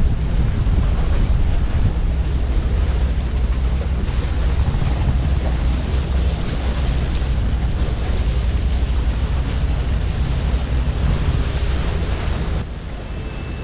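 Heavy wind buffeting the microphone, a loud, deep rumble with no clear rhythm, which breaks off about a second before the end.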